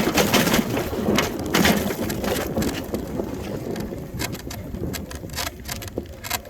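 Bicycle rolling fast over a rough trail: tyres crunching and the frame clattering over bumps, with rough rumble on the microphone. It gets quieter through the second half as the bike slows.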